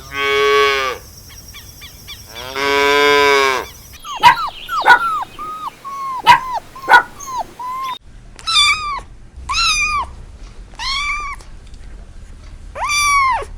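A cow mooing twice, two long low calls, followed after abrupt cuts by a run of short, sharp, higher-pitched animal cries and then five arching higher calls.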